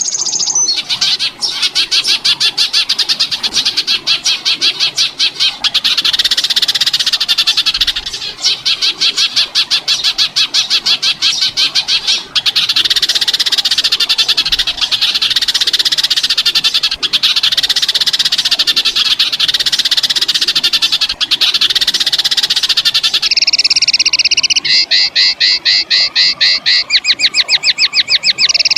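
Recorded songbird call for bird training: a harsh, rapid rattling trill of about ten strokes a second, repeated in long bouts with brief breaks. About 23 seconds in it changes to a different fast trill on two pitches.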